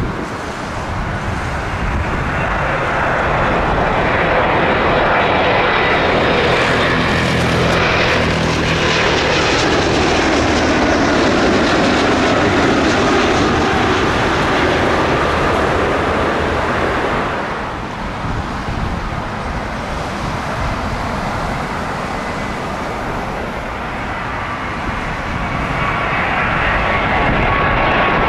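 Jet airliner flying low overhead: its engine noise swells to a loud peak and then eases off. Near the end a second jet's high engine whine grows louder as it approaches.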